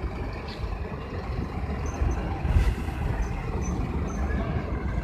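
Dumper truck engine running, a steady low rumble, with a brief louder burst of noise a little past halfway.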